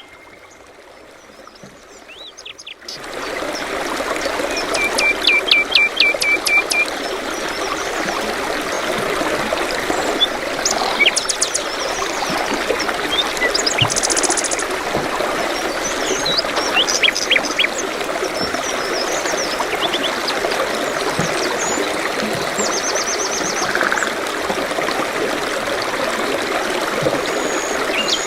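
Running water of a stream, with small birds chirping and trilling over it throughout. The water sound comes in about three seconds in.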